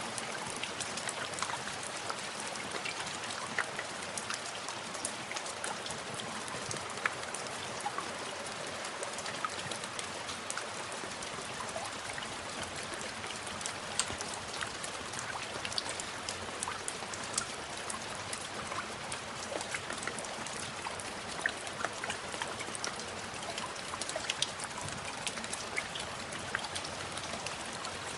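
Steady rain with individual drops pattering and ticking on a surface.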